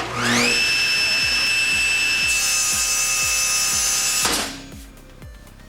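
Table saw motor spinning up with a quickly rising whine, then running at a steady high-pitched speed, with a hiss added about two seconds in. The whine cuts off fast about four seconds in as the blade is stopped dead by its aluminum safety brake (SawStop).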